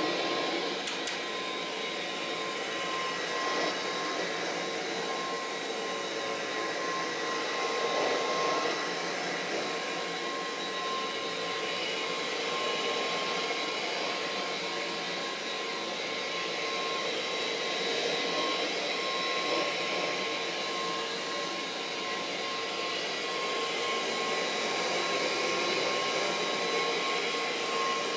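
Kirby Heritage II upright vacuum cleaner running steadily, a constant rush of air with a steady high motor-and-fan tone over it.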